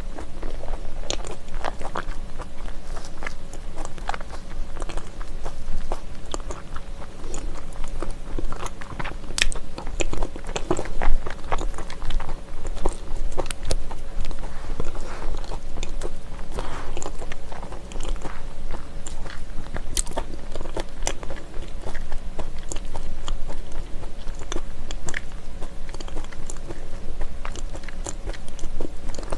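Close-miked chewing of homemade dried persimmon (gotgam), with many small, irregular mouth clicks.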